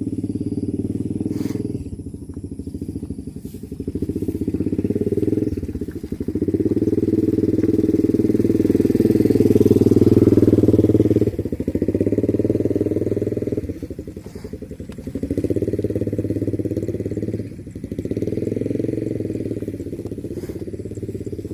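A small engine running steadily, its level rising and falling every few seconds.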